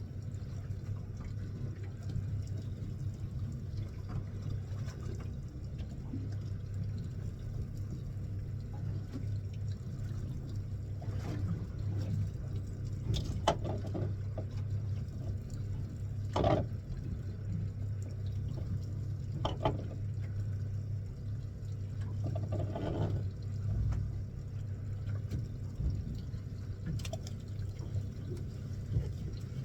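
Fishing boat's engine running with a steady low hum, water sloshing and splashing over it, and a few sharp knocks in the second half.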